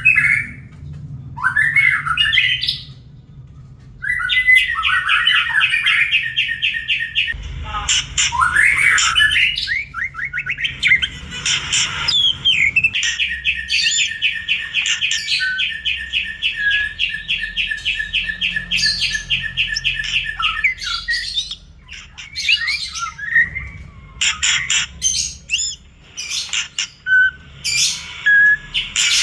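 White-rumped shama (murai batu) singing a varied song of short whistled phrases and chirps, broken by long runs of rapid repeated notes, two of them lasting several seconds.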